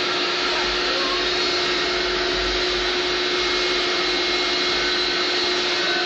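Vacuum cleaner running steadily, a constant rushing noise with a steady motor hum.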